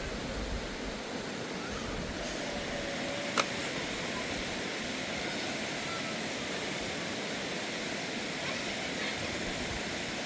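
Steady rushing noise, with a single sharp click a little over three seconds in and a few faint high chirps.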